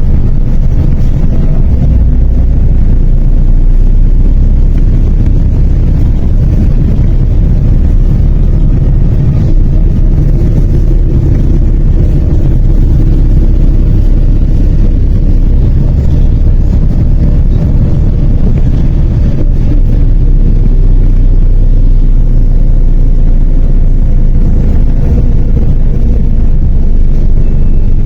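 MAZ 103 city bus engine and drivetrain running, heard from aboard the bus as a loud, steady low drone.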